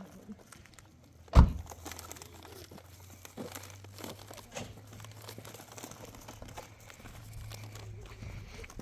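Rustling, crinkling handling noise with scattered light knocks, and one sharp loud knock about a second and a half in, over a low steady hum.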